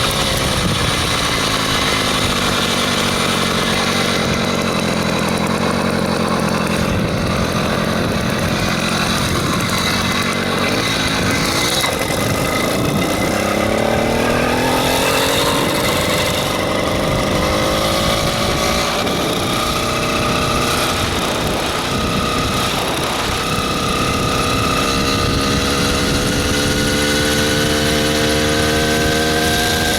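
66cc two-stroke motorized-bicycle engine running under way, its pitch falling in the first few seconds, then climbing about twelve seconds in and again near the end.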